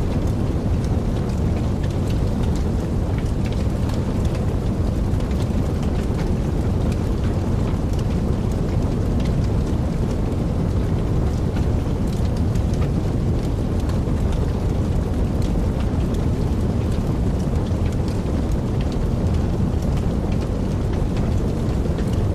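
A wood fire burning in a fireplace: a steady low rumble of flames with frequent small crackles and pops.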